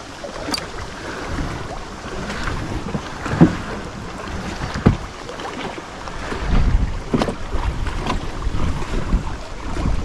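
Wind buffeting the microphone over water lapping at a kayak, with a few sharp knocks, the loudest about a third of the way in. The wind rumble grows stronger past the middle.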